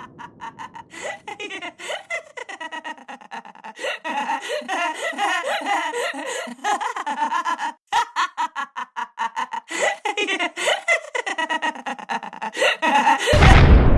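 Long, exaggerated fit of laughter in rapid ha-ha-ha bursts: the cartoon witch cackling. It is cut off near the end by a sudden loud burst of noise.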